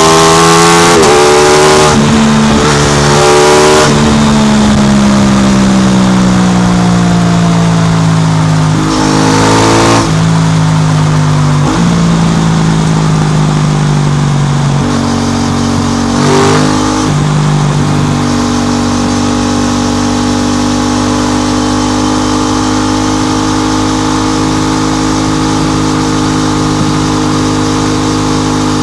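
Aprilia RS660's parallel-twin engine through an SC Project exhaust, revving up twice in the first few seconds. The pitch then slides down as it slows, stepping up a few times along the way with a short throttle blip near the middle. For the last ten seconds it holds a steady note.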